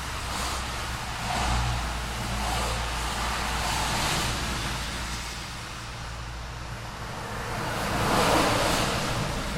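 Road traffic: a steady low engine rumble with several cars passing one after another, their tyre noise swelling and fading, the loudest pass near the end.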